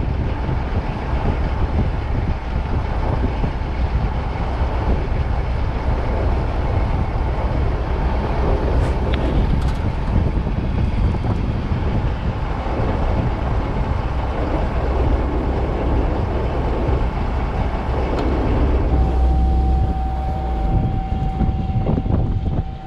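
Don-1500B combine harvester running steadily, a continuous engine and machinery din. A steady high-pitched tone joins it near the end.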